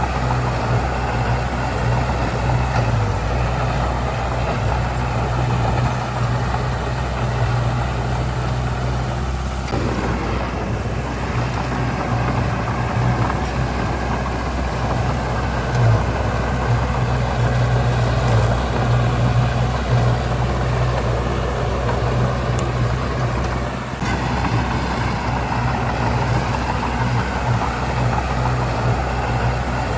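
Heavy construction machine's diesel engine running steadily for the whole stretch, with a low, continuous engine hum.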